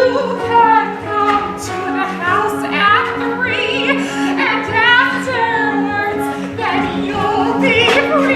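Tenor singing in operatic style with wide vibrato, over accompaniment chords repeated steadily beneath the voice.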